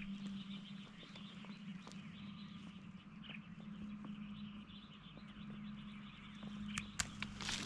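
Faint outdoor ambience: a steady chorus of small animal calls, likely frogs, with a low steady hum under it and a few sharp clicks near the end.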